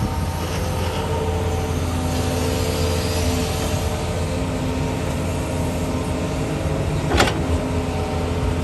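Doosan DX220 excavator's diesel engine running steadily under work, a low drone with a faint steady whine above it. A single sharp knock comes about seven seconds in.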